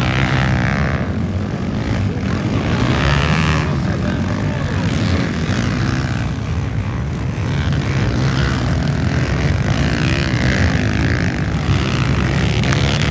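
Motocross dirt bike engines running hard through a race, their pitch rising and falling as the riders work the throttle.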